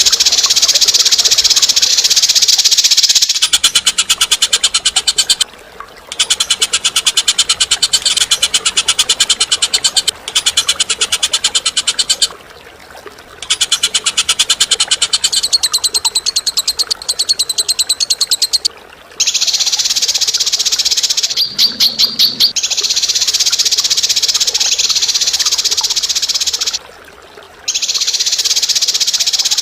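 Songbird giving long, harsh, very rapid trills of several seconds each, broken by short pauses, with a brief series of separate sharper notes about two thirds through.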